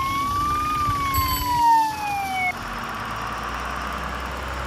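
Police car siren wailing in one slow rise and fall, cutting off about two and a half seconds in; a steady vehicle engine rumble with a hiss carries on after it.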